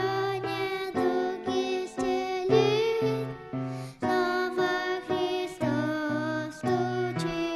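Woman singing a solo hymn-style song with a wavering vibrato, accompanied by keyboard chords and bass notes.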